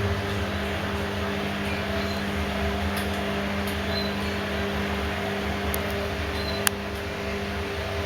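A steady machine hum with a low rumble and a constant tone, and one sharp click a little before the end.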